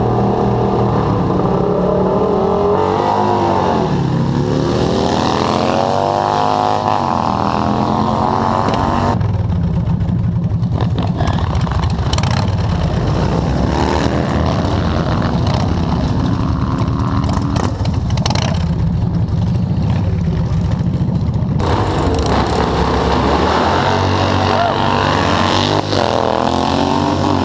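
Motorcycle engines running loudly and revving. The pitch dips and climbs again a few seconds in and near the end, with a steady, dense engine drone through the middle.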